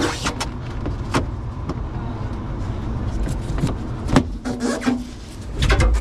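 Steady low rumble of a vehicle with scattered clicks and knocks, the sharpest knock about four seconds in and another cluster near the end.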